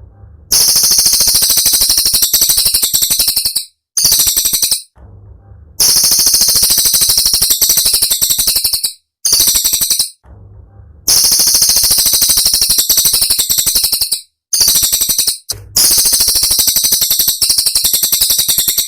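Cililin song bird singing in fast, tight, high-pitched rattling trills, the notes packed so close they stutter. The trills come in bursts of one to three seconds with short pauses between them.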